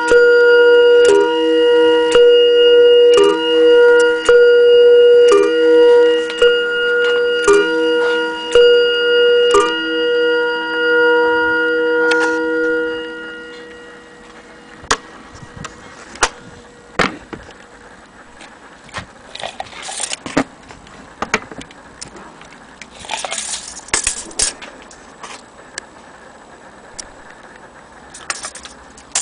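Junghans mantel clock striking, about ten metal chime strikes roughly a second apart, each ringing on and the last fading out about thirteen seconds in. Then scattered clicks and light rattles of the clock's case and mechanism being handled.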